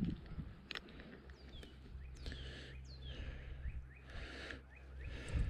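Small birds chirping: a quick run of short, downward-sliding chirps, then a few short upward flicks, over a steady low hum. A brief rush of noise comes about four seconds in.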